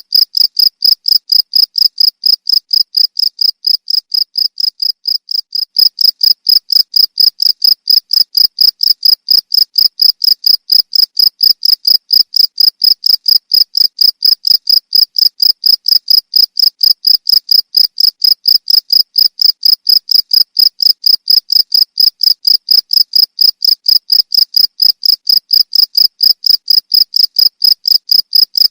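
Cricket chirping steadily in a fast, even run of high-pitched chirps, about two to three a second, dipping slightly in loudness a few seconds in.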